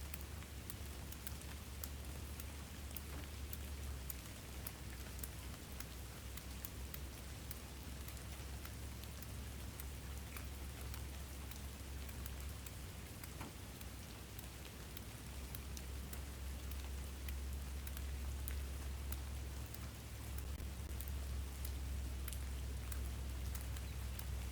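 Steady rain, with many separate drops ticking sharply on a surface over a low rumble; it grows a little louder in the second half.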